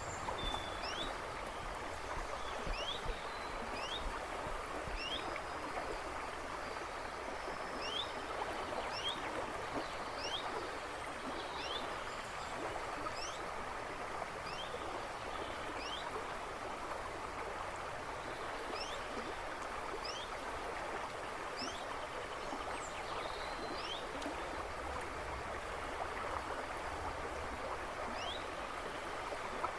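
A river rushing and babbling steadily, with a bird in the woods behind it giving short upward-sweeping chirps roughly once a second.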